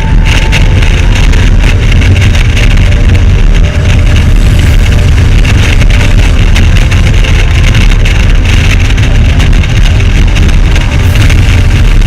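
Motorcycle under way at road speed: steady engine and road noise buried in heavy wind rumble on the microphone, starting abruptly.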